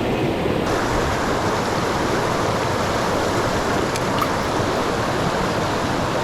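Mountain stream rushing steadily, a loud constant wash of water that turns a little brighter and hissier just under a second in.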